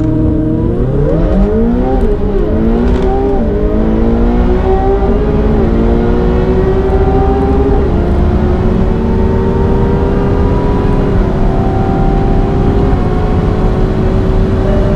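Supercar engine at full throttle, accelerating hard through the gears. Its pitch climbs and drops back at each upshift, the shifts coming further apart, then rises slowly and steadily in a tall gear at high speed.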